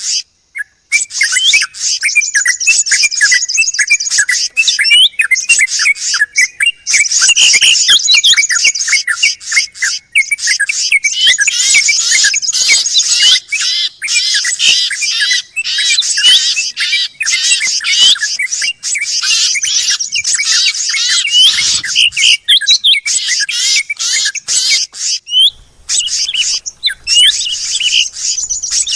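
A dense chorus of small songbirds chirping, trilling and squeaking at once, many overlapping high calls with hardly a pause: a bird-luring (pikat) recording of many noisy birds. A brief break comes about 25 seconds in, after which a faint low hum runs under the calls.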